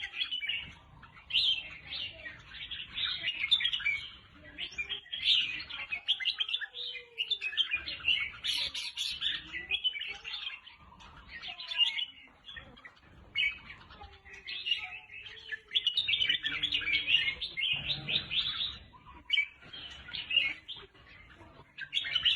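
Red-whiskered bulbul singing: bursts of quick chirping phrases, each a second or two long, separated by short pauses.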